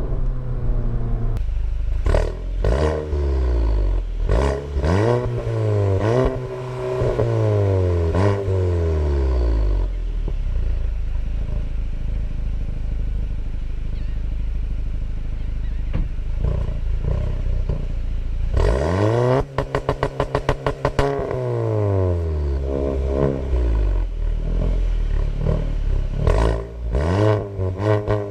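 Volkswagen MK7 GTI's turbocharged 2.0-litre four-cylinder, breathing through a 3-inch catless downpipe, accelerating hard through several quick DSG upshifts, its pitch climbing and dropping with each gear, then cruising steadily. About two-thirds of the way through it pulls hard again with a rapid string of crackles, and it revs up again near the end.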